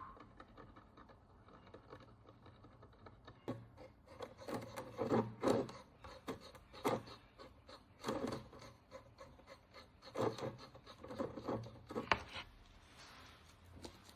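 A hand tool scraping and rubbing at the encrusted surface of a corroded bronze Roman coin, cleaning off dirt and oxidation. The scratching starts about three and a half seconds in and comes in uneven bursts of small scrapes and clicks.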